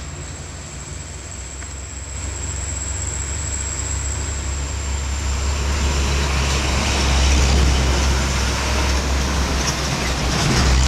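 Diesel dump truck engine labouring under load on a steep climb, growing steadily louder as it comes closer, with a constant low rumble.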